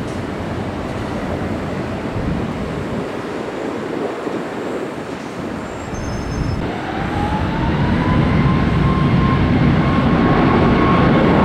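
Jet airliner engines running, a steady rushing roar that grows louder in the last few seconds as a whine rises in pitch and then holds.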